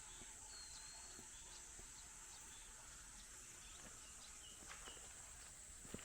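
Quiet outdoor ambience: a steady high-pitched insect drone, with a few faint bird chirps and light scattered ticks.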